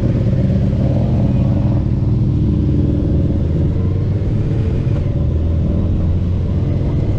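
Racing motorcycle engine running at a steady, low speed with no hard revving.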